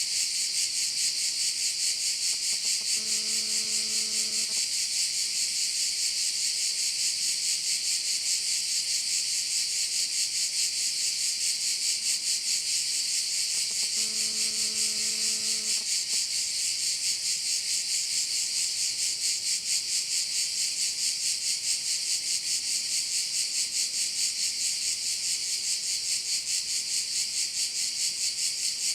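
A chorus of cicadas buzzing continuously in a high, rapidly pulsing drone. Twice, a steady low tone with overtones sounds for under two seconds under the buzz, about three seconds in and again about fourteen seconds in.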